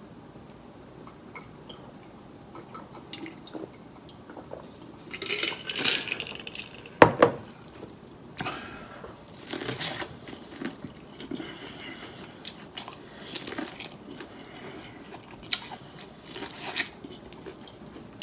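Close-miked bites and chewing of corn on the cob, in several short crunchy bursts, with one sharp knock about seven seconds in.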